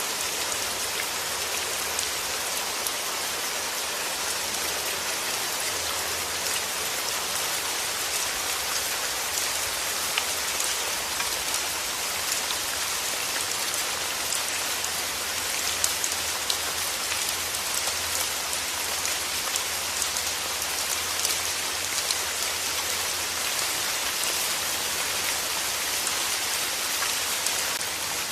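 Steady rain falling: an even, dense hiss with scattered individual drops ticking through it.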